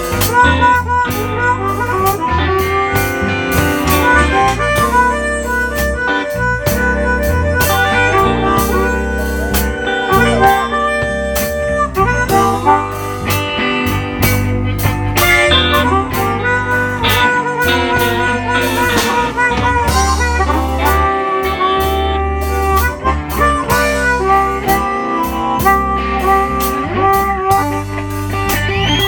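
Live blues band playing an instrumental break in a slow blues, with sustained, bending lead lines over bass and drums and no singing.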